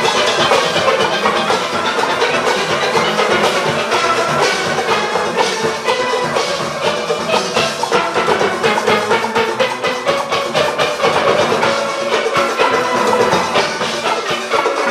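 Large steel orchestra playing: many steel pans striking dense, rapid notes over the engine room's drums and percussion.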